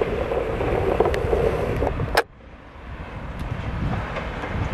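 Passenger train running past with a steady rumble and wheel noise, cut off abruptly about two seconds in; after the cut a quieter train rumble builds up again.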